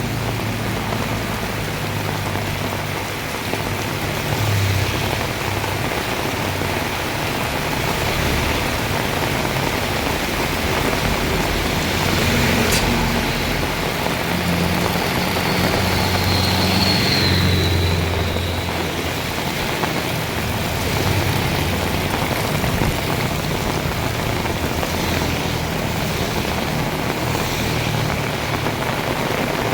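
Heavy rain pouring steadily, with a low rumble underneath that comes and goes.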